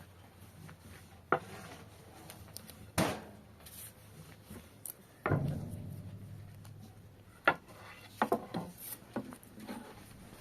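Scattered knocks and clatter of objects being handled: about half a dozen separate sharp knocks spread out, with a short cluster near the end and a brief low rumble after one of them midway.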